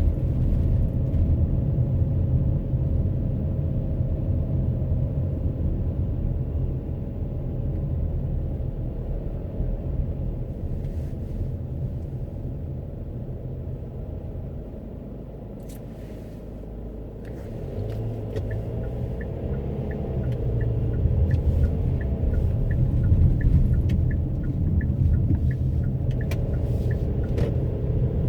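Road and tyre rumble heard inside a moving car. It eases to its quietest about halfway through and then builds again, with a light, evenly spaced ticking in the second half.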